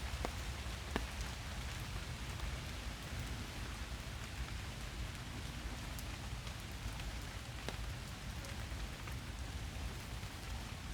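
Steady rain falling in a forest, an even hiss with scattered individual drops ticking sharply on nearby surfaces.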